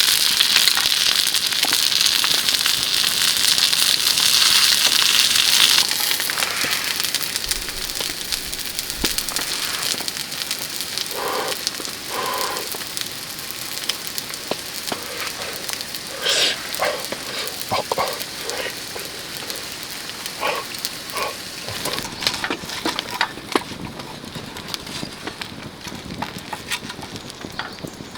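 Food sizzling and popping in a hot pan, loud for the first six seconds and then much quieter, with scattered crackles and a few short light knocks.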